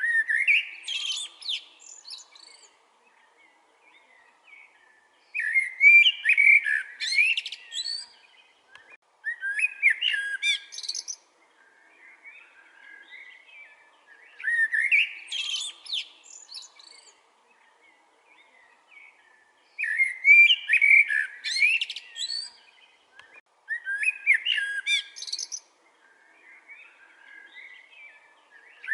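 Common blackbird singing: separate warbling song phrases, about seven of them, each a second or two long, with pauses of a few seconds between.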